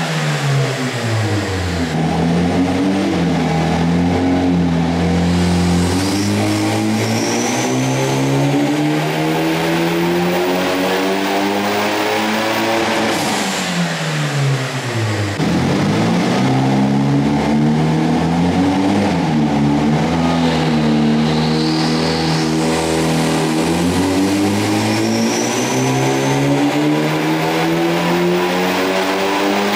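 2022 Hyundai Elantra N's turbocharged 2.0-litre four-cylinder at full throttle on a hub dyno. The revs fall away at the start, climb steadily through one long pull, drop off about halfway through, then climb again through a second pull. There is no high-pitched whistle: the boost leak in the intercooler piping is gone.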